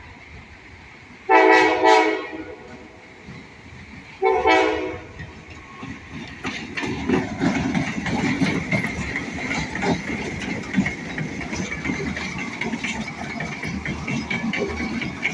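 Diesel freight train's air horn sounding a chord, two short blasts and then a longer one, followed by the train rolling past: a continuous rumble with rail clatter and a steady high ring over it.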